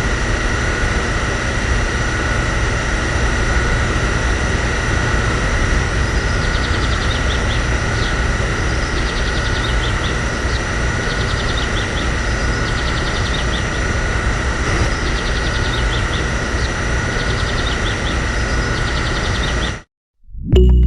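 A machine running steadily with a constant whine, with faint clusters of ticks repeating about every second and a half; it cuts off suddenly near the end.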